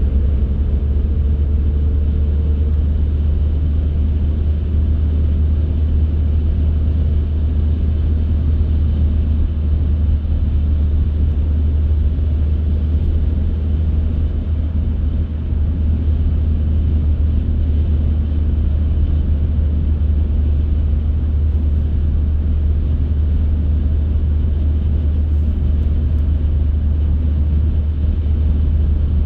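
A car driving at a steady pace: an even, low rumble of engine and tyre noise on the road, with no sudden events.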